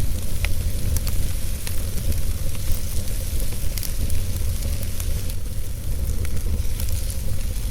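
Wood fire burning in a fireplace: a steady low rumble and hiss with scattered small crackles and pops.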